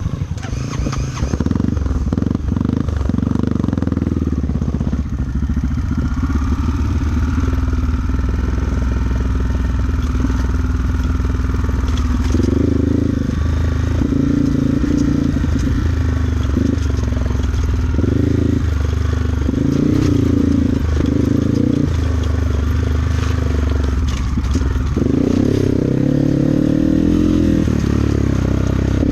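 Trail motorcycle engine running while riding over a rough dirt trail, its revs rising and falling again and again with the throttle.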